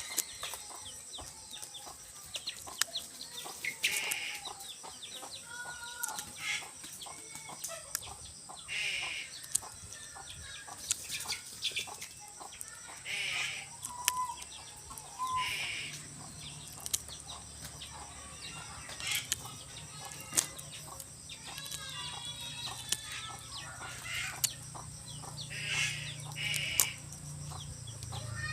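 Chickens clucking in short, repeated bursts, amid scattered clicks and rustling. A low steady hum comes in about halfway through.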